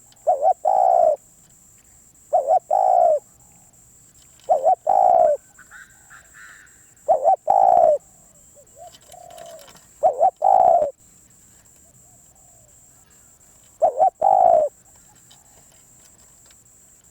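Spotted dove cooing: six phrases two to four seconds apart, each two short notes run into a longer coo. Faint higher chirping from another bird between the phrases about five to seven seconds in.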